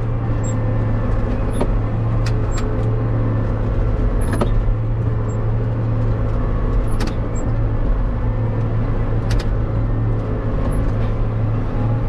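A vehicle engine running steadily, with a few sharp clicks or knocks every couple of seconds.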